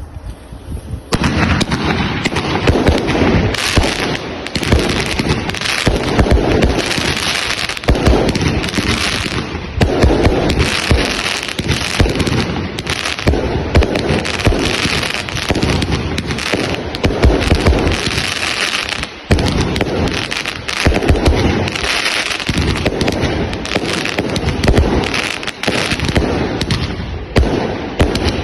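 Dense barrage of fireworks and firecrackers going off, a rapid, unbroken crackle of overlapping bangs that starts about a second in and keeps on.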